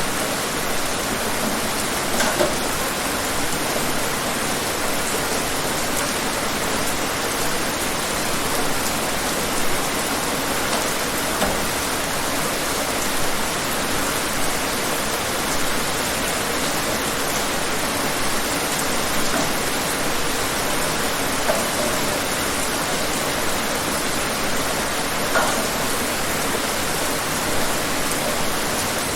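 Steady, dense rainfall: an even hiss of rain with now and then a slightly louder drop.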